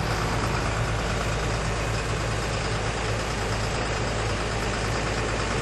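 Truck engine idling steadily: a low, even hum with a broad rushing noise over it.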